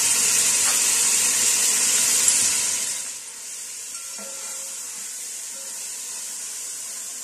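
Marinated chicken and spice paste sizzling in hot oil in an aluminium pot while being stirred with a metal spatula. The sizzle is loud at first and drops to a quieter, steady level about three seconds in.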